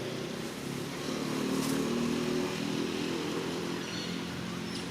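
A motor vehicle engine running, growing louder about a second in and easing off near the end.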